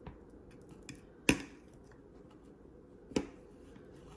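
A few sharp, isolated taps and clicks of a spice container being handled while smoked paprika is sprinkled on. The loudest tap comes about a second and a half in and another near the end.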